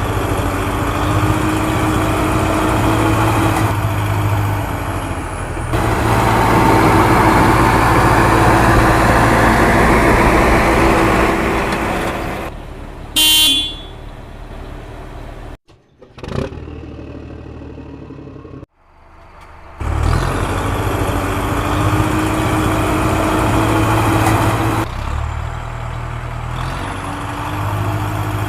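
A JCB backhoe loader's diesel engine running hard while loading sand, swelling louder for several seconds in the first half. A vehicle horn sounds once, for about a second, near the middle. The sound cuts out abruptly twice soon after.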